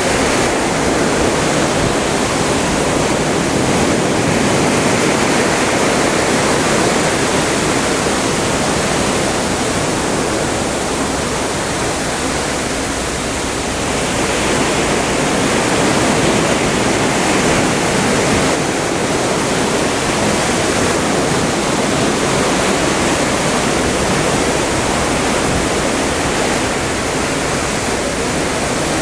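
Atlantic seawater rushing and churning along the side of a ship under way: a loud, steady rush that swells and eases gently every few seconds.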